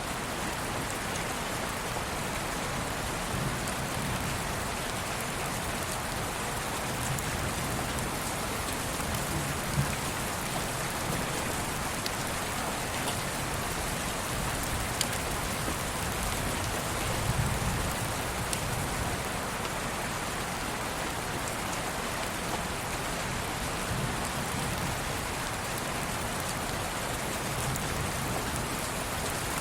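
Steady rain falling, with scattered sharper drop ticks and a soft low rumble that swells a few times.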